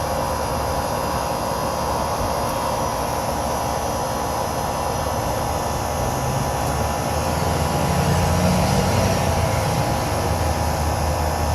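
Air-conditioning condensing unit running steadily, its compressor and condenser fan humming while it is charged with refrigerant. The low hum swells a little about eight seconds in.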